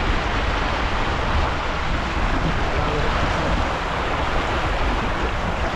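Steady wind rushing over the microphone and water washing past the hull of a sailing yacht running downwind.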